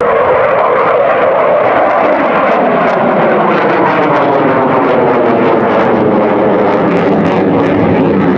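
Loud airplane flying past, its engine note falling steadily in pitch as it passes.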